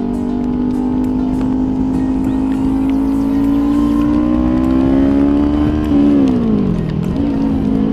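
Kawasaki Ninja 400 parallel-twin engine pulling under way, its revs climbing slowly for about six seconds. The revs then fall sharply, jump back up and hold steady near the end.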